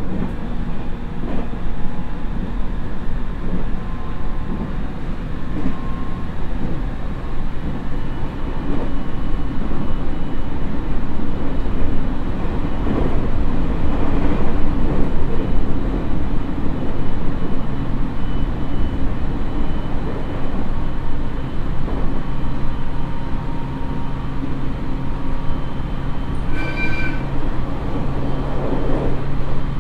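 Onboard running noise of a JR East 701 series electric railcar (KuMoHa 701-35, Mitsubishi IGBT-VVVF inverter, MT65 AC traction motors) at about 80 to 95 km/h, heard inside the passenger cabin: a steady rumble of wheels and running gear with a low steady hum. A short high-pitched tone sounds briefly near the end.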